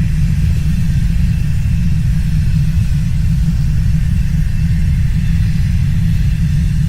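Landslide on a volcanic mountainside, a deep steady rumble of falling rock and earth that keeps going without a break.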